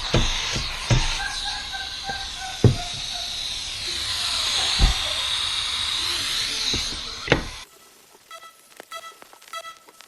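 Steady hissing spray with a few sharp knocks, cutting off suddenly a little past halfway; faint background music follows.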